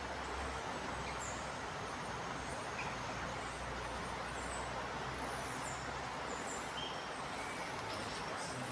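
Steady outdoor background hiss with faint, brief high bird chirps scattered through it.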